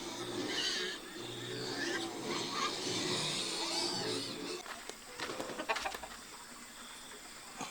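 Chickens clucking, with a few short knocks in the second half.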